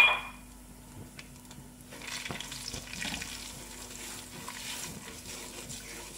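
Semolina frying in hot ghee in a non-stick pot while a spatula stirs and scrapes it: a soft sizzle and scraping that grows about two seconds in, the start of roasting the semolina. It opens with a short, sharp ringing clink that dies away within half a second.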